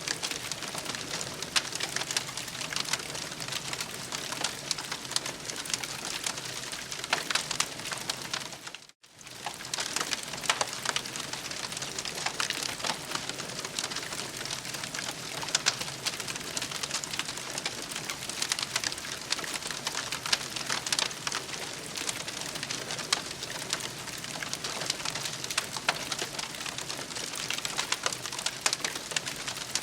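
Campfire crackling, a dense steady stream of small snaps and pops. About nine seconds in it fades out to silence for a moment and comes straight back.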